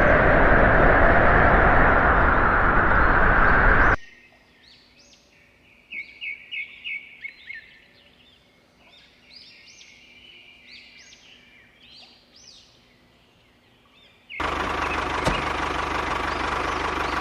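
Loud, steady rushing noise that cuts off abruptly after about four seconds to a quiet stretch of birds chirping in quick short calls. About ten seconds later the loud steady noise cuts back in.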